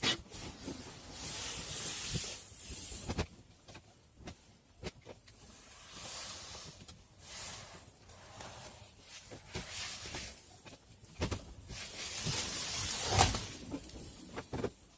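Hands-on workshop noise: several bursts of scratchy hiss, each a second or two long, with scattered clicks and knocks, the loudest knock about thirteen seconds in.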